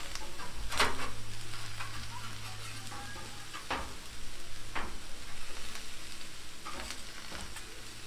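Chopped potatoes, sweet potatoes, peppers and onions sizzling steadily on a Camp Chef propane griddle, while a metal spatula turning them scrapes and clacks on the griddle top four times, loudest about a second in.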